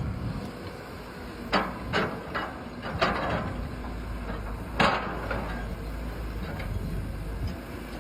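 Radio-controlled model construction machinery at work: a quick run of sharp clattering knocks in the first half and one louder knock about five seconds in, over a steady low motor hum.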